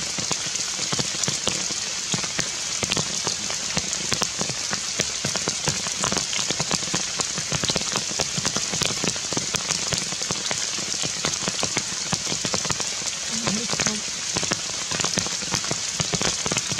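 Heavy rain falling on dense forest foliage: a steady hiss made up of countless small drop impacts, unbroken throughout.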